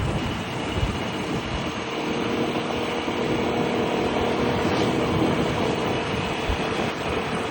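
Piaggio Liberty 125 scooter's single-cylinder four-stroke engine running on the move, with steady wind and road noise. The engine note eases briefly near the start and then holds steady.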